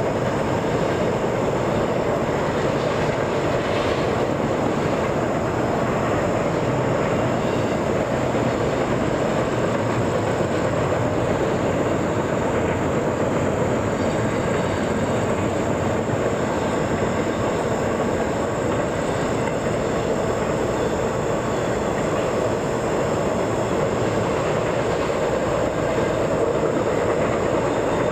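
A train's cars rolling past on the track, a steady continuous rumble with no break, and a faint steady high-pitched whine over it.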